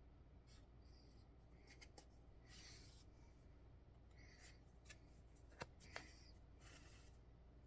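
Near silence with faint handwork sounds: thread drawn through cross-stitch fabric in two soft swishes, and a few small ticks.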